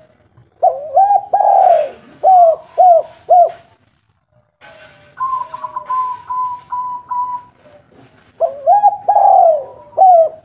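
Spotted dove cooing: two phrases, each a short note, a long falling coo and then three short coos, with a softer run of even, higher-pitched notes in between.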